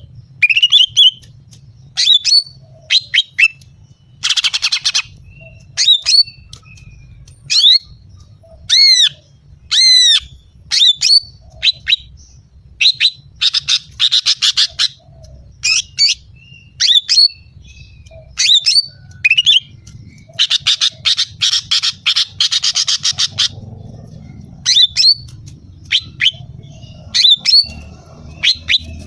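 Female green leafbird (cucak ijo) calling: short, sharp whistled notes that sweep and arch in pitch, about one a second, broken by rapid rattling runs, the longest about 20 seconds in and lasting some three seconds. This is the female's call that draws and excites males.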